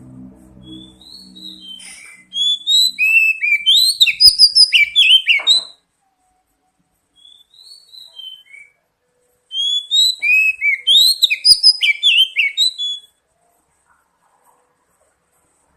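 Oriental magpie-robin song: two loud bursts of rapid, varied whistled notes, each a few seconds long, with a few soft short phrases between them.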